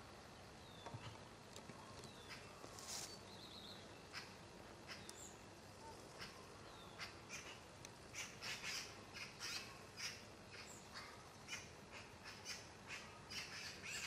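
Birds calling: short, sharp calls, scattered at first and then coming several a second through the second half, over a faint outdoor background.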